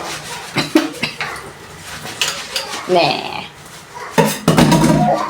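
Kitchen clatter of metal utensils and dishes being handled, with several sharp clinks and knocks and a louder, busier stretch of clatter near the end.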